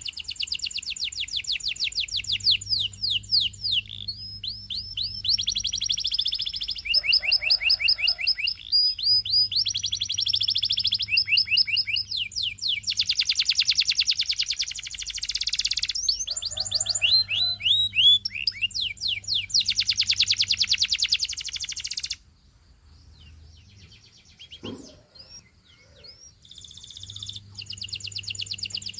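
Canary singing: long runs of fast, high-pitched trills and rolls, each repeated many times before switching to the next tour, broken by short pauses. The song drops away for a few seconds near the end, with a single soft knock, then starts again.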